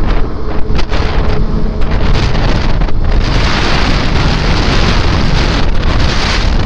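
Wind rushing over the microphone of a moving Suzuki Gixxer SF 250 motorcycle, with its single-cylinder engine running underneath. The rush grows stronger about three seconds in.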